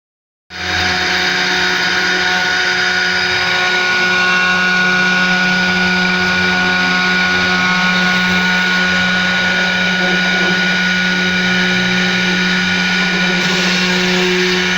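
CNC router spindle running steadily during 3D machining: a constant high whine over a low hum and cutting hiss, starting about half a second in.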